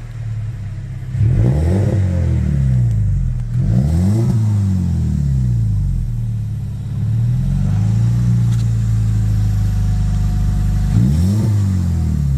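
2007 BMW 1 Series 1.6-litre four-cylinder petrol engine idling and blipped three times, each rev rising and falling quickly: about a second in, at about four seconds, and near the end. It breathes out through a Toyota Supra rear exhaust box on a straight pipe.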